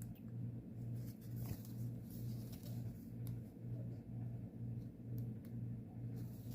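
Faint scratch and rustle of embroidery floss being drawn through stamped cross-stitch fabric with a needle, a few soft clicks among it, over a steady low hum that pulses about twice a second.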